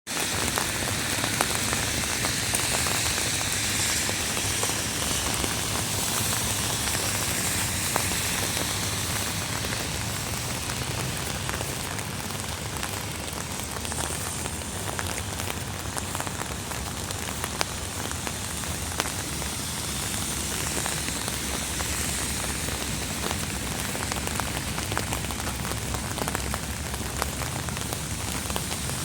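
Steady rain falling on surfaces, an even hiss with many scattered drop impacts.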